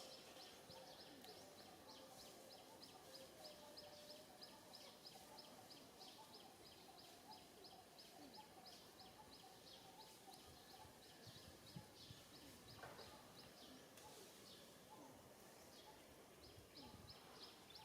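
Faint outdoor ambience with a high, rapid animal chirping, about five chirps a second, that breaks off briefly about three-quarters of the way through and then resumes.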